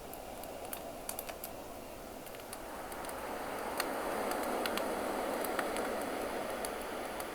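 Campfire crackling with scattered sharp pops over the wash of ocean waves; a wave swells up about three seconds in and eases off near the end.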